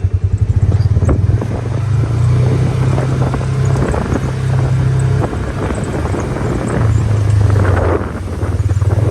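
A vehicle engine running at low revs, with its pitch rising and falling a little as it drives. Light rattles and knocks sound over it.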